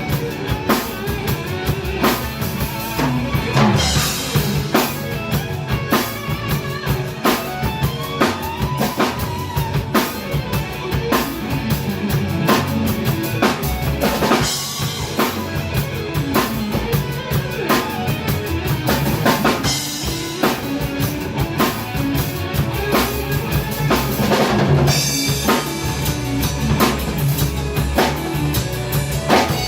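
Rock music driven by a busy drum kit, with bass drum and snare strikes and several cymbal crashes, over pitched instruments.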